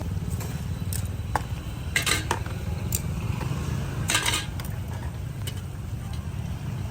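Cooking utensils and pans clinking and clattering in a handful of short, irregular bursts, the longest a little past halfway, over a steady low rumble of engines.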